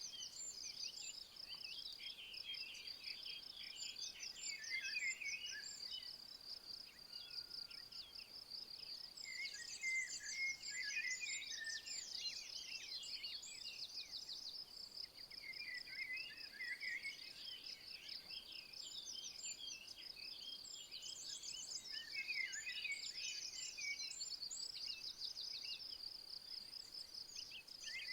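An insect chirring steadily in a fast, unbroken train of high pulses. Birds sing short twittering phrases over it every few seconds.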